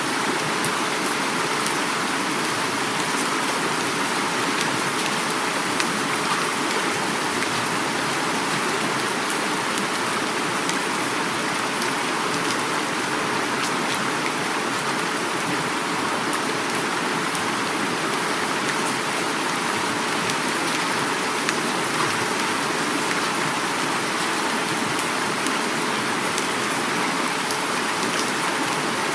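Heavy rain falling steadily together with flowing river water: an even, unbroken hiss with faint scattered drop ticks.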